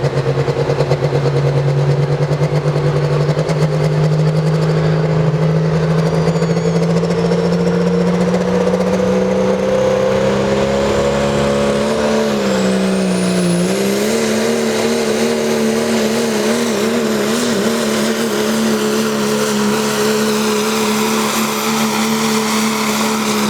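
Diesel pulling truck's engine held at high revs under heavy load during a pull, its pitch climbing slowly. The pitch dips briefly past halfway, then steadies again. A faint high whistle rises about halfway through.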